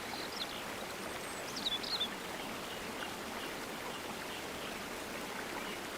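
River water flowing with a steady rushing sound, with a few short high chirps in the first two seconds.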